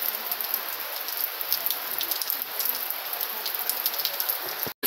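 Rain falling steadily, with many single drops ticking through it. The sound cuts out for an instant near the end.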